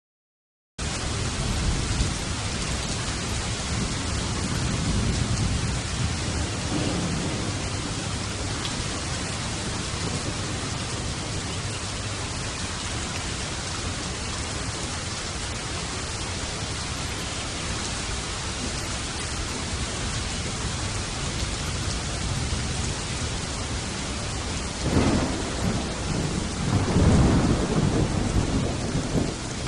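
Steady heavy rain with low rolling thunder, starting abruptly out of silence about a second in. There are two louder peals of thunder near the end.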